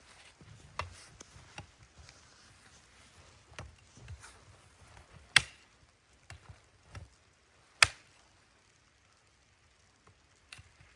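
A handful of sharp, irregular knocks a second or more apart, the two loudest a little past halfway and about two-thirds of the way through.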